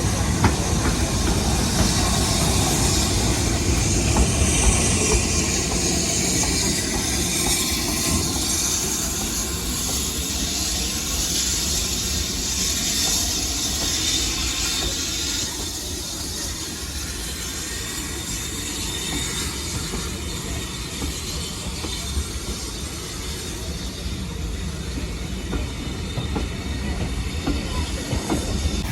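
Steam-hauled heritage train running on the rails: a steady rumble of wheels and carriages with hiss, and a faint high wheel squeal about a third of the way in.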